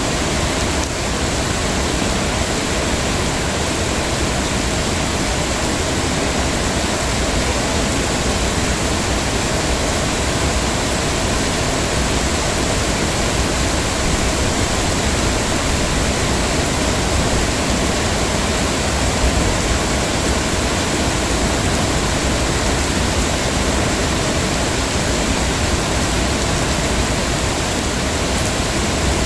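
Heavy rain falling steadily: a dense, even hiss with no break or change.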